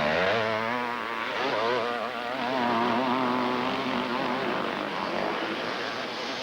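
Several motocross racing motorcycles running hard, their engine notes rising and falling as the riders work the throttles over the course.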